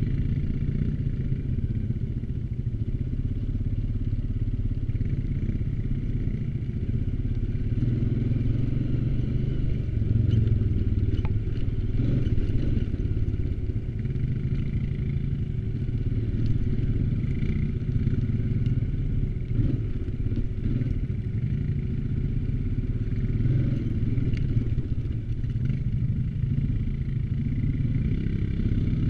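ATV engine running steadily while riding, with some rattling from the machine.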